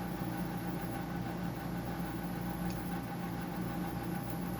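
Steady background hum of a running machine, with a few pitched tones over an even hiss. A faint tick comes about halfway through.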